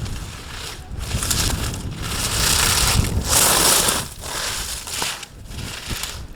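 Ski edges scraping on firm snow through slalom turns, coming in surges of hiss with short breaks between them, the longest and loudest about halfway through. Wind rumbles on the microphone underneath.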